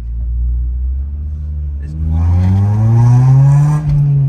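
Car engine running at a low steady note, then revving up with a rising pitch from about two seconds in and dropping back near the end.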